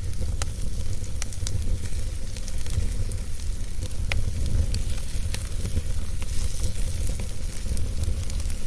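Wood fire burning in a fireplace: a steady low rush of flames under a hiss, with scattered sharp crackles and pops, the loudest about four seconds in.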